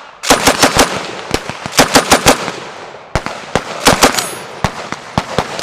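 Browning Automatic Rifle firing full-auto in short bursts, about eight to ten shots a second, after being switched to its fast rate of fire. Scattered single shots follow near the end.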